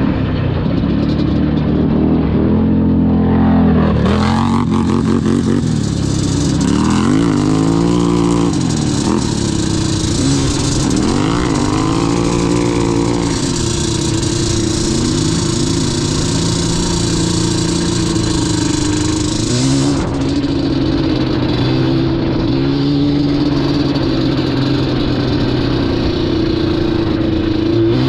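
Yamaha Banshee's two-stroke twin engine under way, revving up and down over and over as the throttle is worked and gears change, holding steadier for several seconds in the middle. A steady rushing hiss runs over it from about four seconds in until about twenty seconds in.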